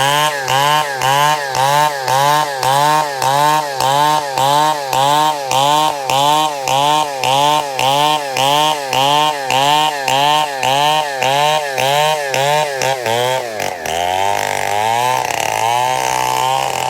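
Chainsaw ripping lengthwise through wood, its engine pitch swinging up and down about twice a second as the bar is worked through the cut. About 14 seconds in the rhythm stops, the pitch dips, then the saw runs on more steadily.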